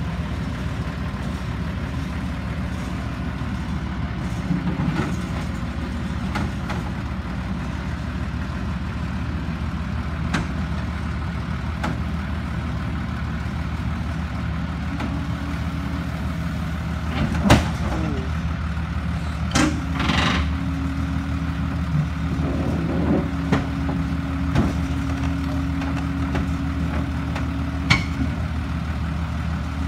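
Kobelco SK140-8 excavator's diesel engine running steadily while the machine works, with a steady higher hum joining about halfway. Several sharp metallic knocks and clanks come through, the loudest a little past the middle.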